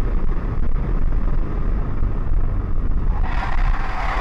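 Steady low rumble of a moving car with wind noise on the microphone; a harsher hiss builds near the end.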